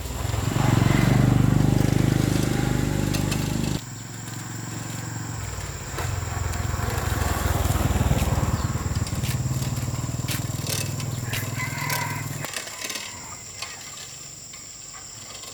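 Small motorcycle engine running, heard in two stretches that each cut off abruptly, the first about four seconds in and the second near twelve seconds, followed by quieter scattered clicks.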